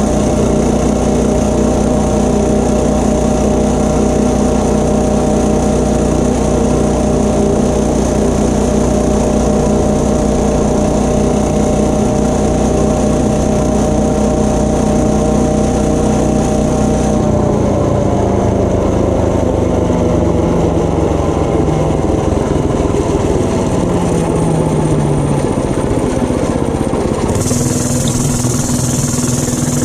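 Tillotson 212 single-cylinder engine on a mini bike, running at a steady high rpm at full throttle on a top-speed run. Past the middle the revs fall away as the throttle is let off, and it settles to a low idle near the end.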